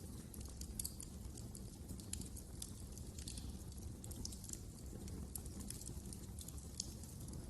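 Wood fire crackling in a fireplace: irregular small pops and snaps over a steady low rumble of the burning.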